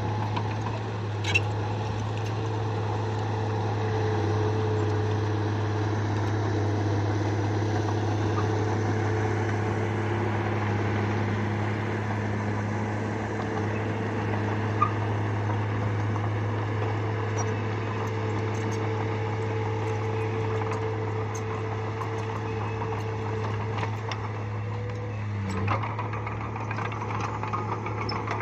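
Bulldozer's diesel engine running steadily with a deep even hum, broken by a couple of brief sharp clicks.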